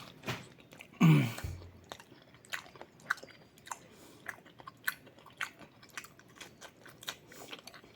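Close-up mouth sounds of a person chewing a hotdog with the mouth open: wet smacks and clicks, irregular, about two a second. A short voiced sound falling in pitch comes about a second in and is the loudest thing.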